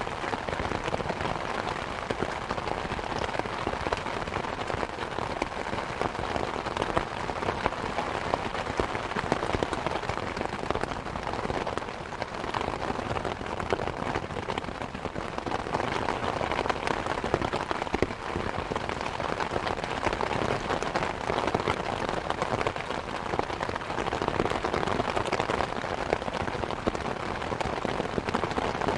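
Steady rain hiss with a wood fire crackling over it, small snaps and pops scattered irregularly throughout.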